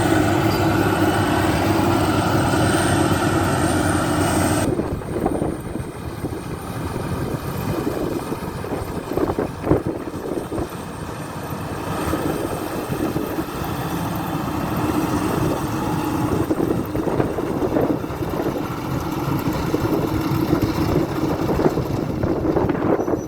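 Maxxi Bimo combine harvester running while harvesting rice, its engine and machinery making a loud continuous noise. About five seconds in, the steady engine hum changes abruptly to a rougher, more uneven machine sound.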